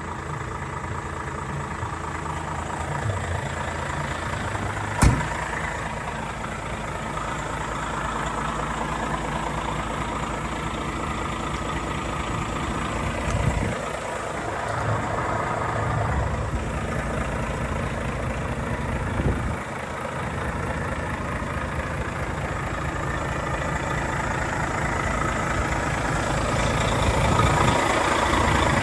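Volvo FH 460 truck's 13-litre six-cylinder diesel engine idling steadily, with a single sharp click about five seconds in. The engine grows a little louder toward the end.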